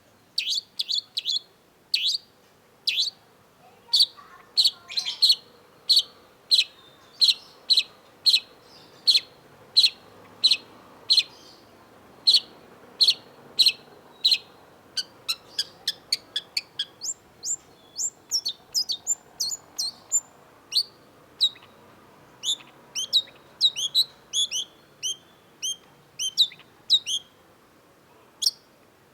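Long-tailed shrike singing: a long run of short, sharp notes, one or two a second at first. About halfway through they speed up into a quicker, higher, more varied chatter.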